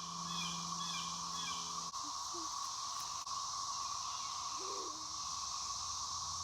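Chorus of countless cicadas in the surrounding woods: a steady, unbroken whirring drone, their mating call. A few short bird chirps sound over it in the first two seconds.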